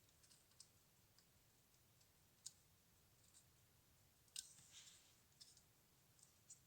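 Faint, scattered small clicks and light scraping, like small parts being handled. The sharpest clicks come about two and a half seconds in and just after four seconds in, with a brief scratch right after the second.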